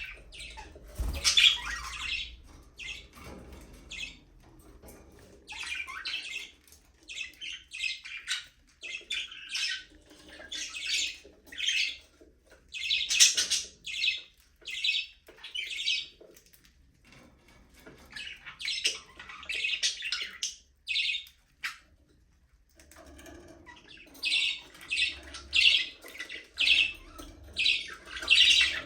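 A flock of budgerigars chirping in rapid clusters of short, high calls, with a brief lull about three-quarters of the way through.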